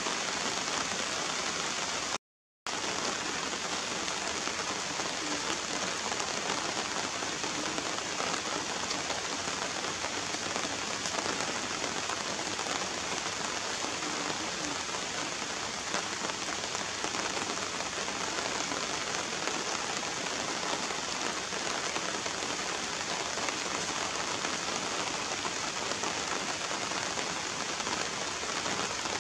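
Steady rain falling and pattering on wet surfaces and puddles, an even hiss that cuts out completely for a moment about two seconds in.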